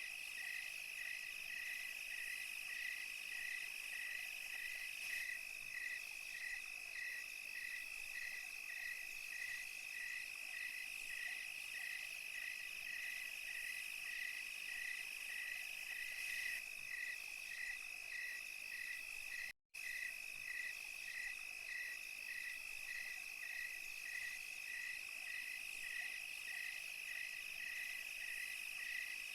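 Night insects in the countryside: crickets and other insects keep up a steady high trill, over which a chirp pulses about two to three times a second. The sound cuts out for an instant about two-thirds of the way through.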